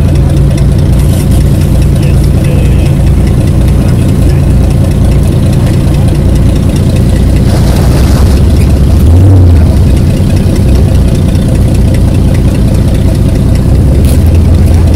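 A vehicle engine idling steadily and loudly, close by.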